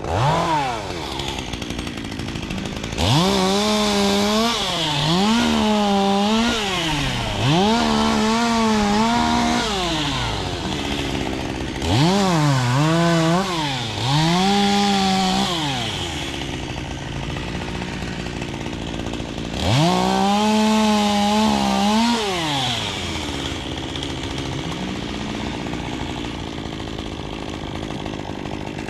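Chainsaw revving up to full throttle again and again, each burst held for one to three seconds before dropping back to idle, with a longer stretch of idling near the end.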